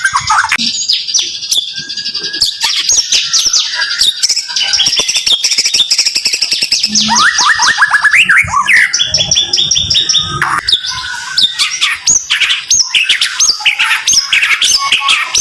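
White-rumped shama (murai batu) singing a rapid, dense song of sharp repeated notes: fast rattling trains of high chips and short sweeping whistles following one after another without pause.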